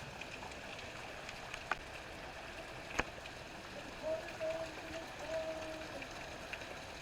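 Steady rain falling, with a few sharp drips ticking through the patter and a faint wavering tone in the second half.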